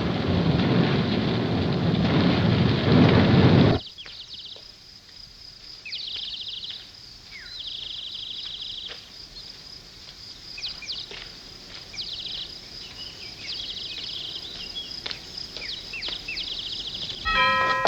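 A loud, steady rushing noise that cuts off abruptly about four seconds in. After it comes a quiet night ambience of repeated high chirping trills, like insects or tree frogs. Near the end, a chime of several steady tones starts.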